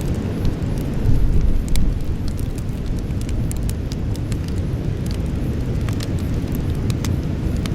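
Wood campfire burning, with scattered small crackles and pops over a steady low rumble that swells briefly about a second in.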